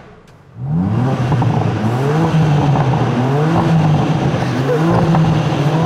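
The new BMW M3/M4's 3-litre twin-turbo straight-six, warm and stationary, revved with its sports exhaust in loud mode. The revs climb about half a second in, hold, and dip and climb again several times.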